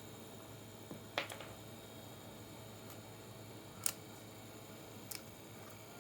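Three sharp, separate clicks over a faint steady background: small hard objects being handled or tapped.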